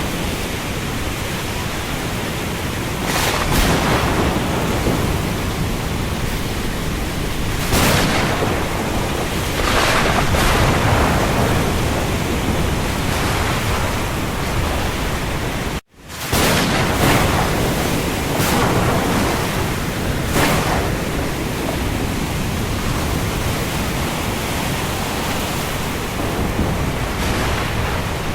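Steady heavy rain: a dense, even hiss that swells louder several times for a second or so. The sound cuts out for an instant about sixteen seconds in, then picks up again.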